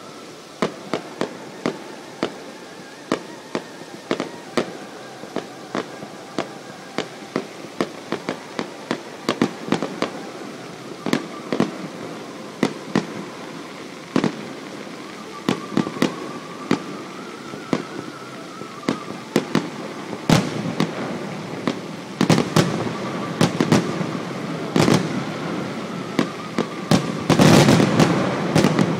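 Fireworks display: a steady run of sharp shell bursts and bangs echoing around a valley. They come faster in the second half and build to a dense, loud barrage near the end.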